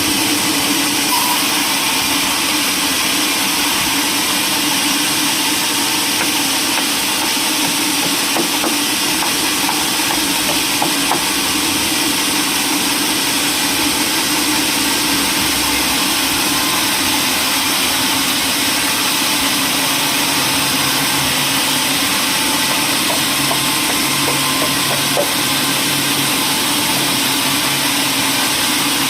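Sawmill machinery running steadily: a loud, even mechanical noise with no break.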